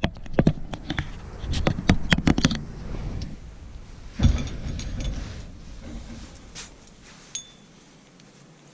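Sharp clicks and knocks of camp gear being handled, a quick run of them and then one heavier knock about four seconds in, followed by quieter rustling.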